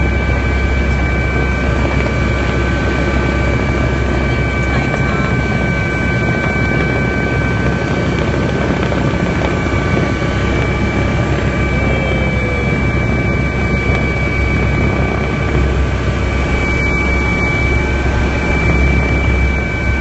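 Helicopter in flight: a loud, steady rotor and engine noise with a few thin, steady whine tones held over it.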